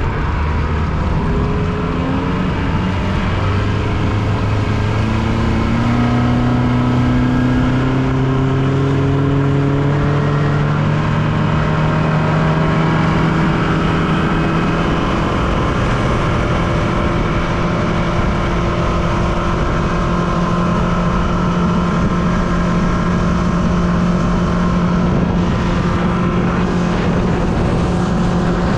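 Yamaha 115 hp outboard motor driving a Yamaha FC-23 boat under acceleration. The engine note climbs steadily for about the first half, then holds at a steady high cruising speed.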